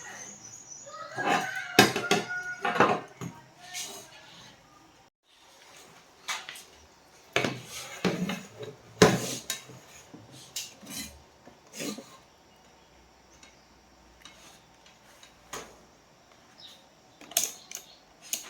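Irregular metal clinks and knocks, with brief ringing, as tools and small metal parts are handled during a welding machine repair. They are busiest in the first few seconds, then come in sparser single knocks.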